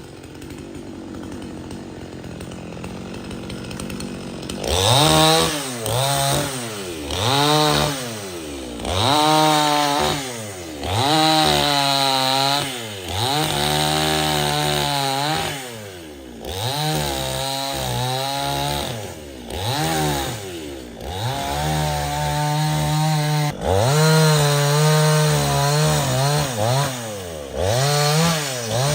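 Chainsaw, running quietly at first, then revved hard about four and a half seconds in, its pitch climbing and dropping again and again every second or two.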